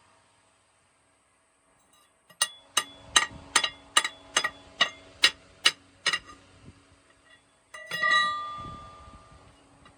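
A quick run of about a dozen hammer blows on metal, two or three a second, each with a short ring. Near the end comes one louder ringing clang.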